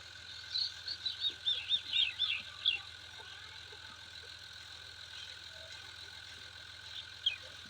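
A bird chirping: a fast run of about ten short, falling chirps in the first three seconds, then two more near the end, over a steady hum.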